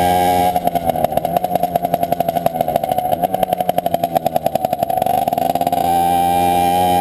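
CPI SM 50's 50cc two-stroke engine running with no rear muffler, loud and raw from the open exhaust. It holds steady revs, drops about half a second in to an uneven, popping low idle of roughly seven pulses a second, then revs back up to a steady note near the end.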